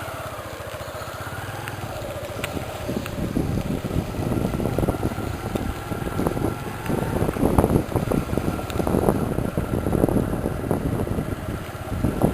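Motorcycle engine running as the ride gets under way. It grows louder about four seconds in, with rough, irregular gusty noise over it.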